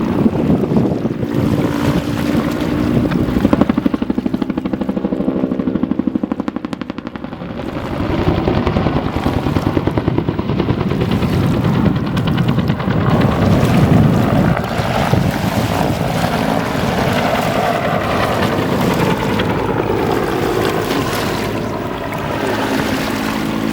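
Bell AH-1 Cobra helicopter flying a display, its rotor and turbine running loud with a steady hum of several tones. A fast rhythmic rotor beat stands out for a few seconds around the middle, and wind buffets the microphone.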